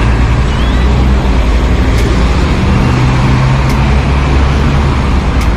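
Busy city road traffic with a heavy vehicle's engine running close by in a low, steady drone.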